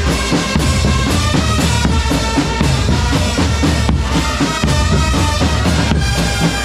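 Loud band music with a drum kit's bass drum and snare keeping a steady beat under held melody notes.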